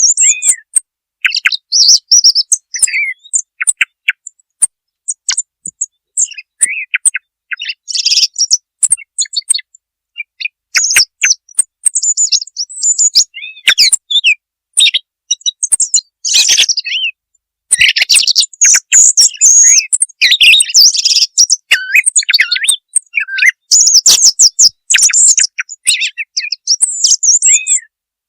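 Song thrush singing: a loud, continuous run of varied, sharp whistled and chirping phrases, one after another with short gaps between them.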